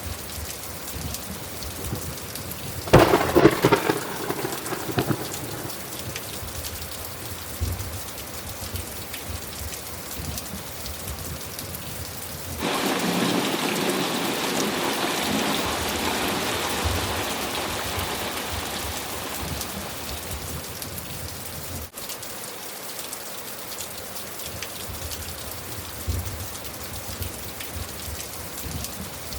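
Steady rainfall with a sharp thunderclap about three seconds in, the loudest moment. Near halfway a louder stretch of storm noise sets in suddenly and slowly dies away.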